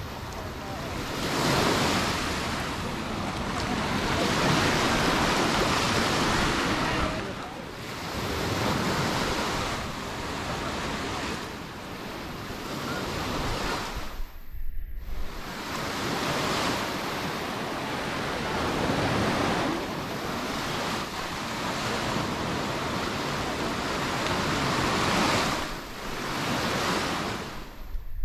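Sea waves breaking and washing up a beach, swelling and falling away every few seconds, with wind buffeting the microphone. The sound breaks off for a moment about halfway through.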